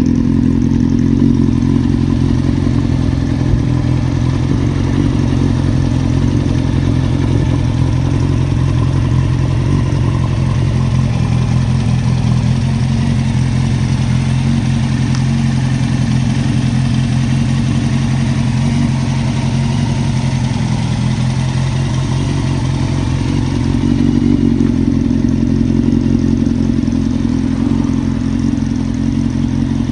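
Honda CB750 RC42's air-cooled inline-four engine idling steadily through a Moriwaki titanium exhaust, briefly a little louder about three-quarters of the way through.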